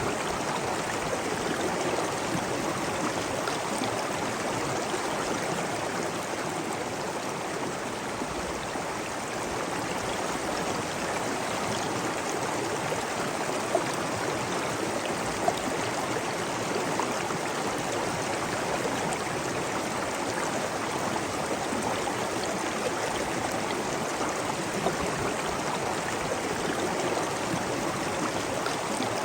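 Running water rushing steadily, like a stream or waterfall, with a couple of brief clicks of water standing out about halfway through.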